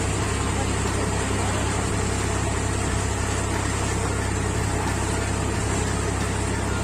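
Tractor engine running steadily, an even low drone that does not change, while threshing paddy.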